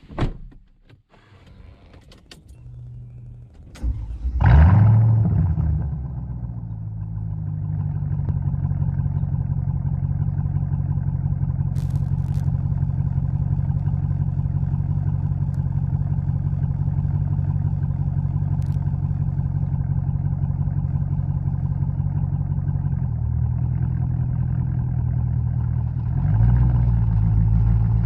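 Mercedes-Benz E55 AMG's supercharged 5.4-litre V8 being started: a thump, a couple of seconds of cranking, then the engine catches about four seconds in with a loud flare of revs. It settles into a steady idle, which steps up slightly near the end.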